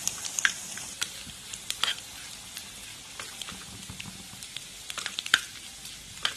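Small coconut pieces frying in hot ghee in a pan: a steady sizzle with scattered sharp crackles and pops, the loudest about five seconds in.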